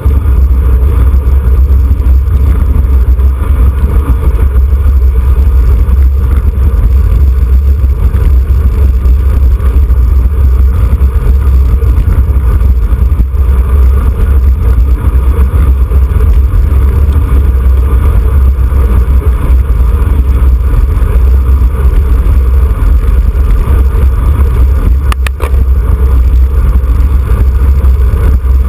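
Wind buffeting the microphone of a camera riding on a racing bicycle: a loud, steady, deep rumble. A brief click comes near the end.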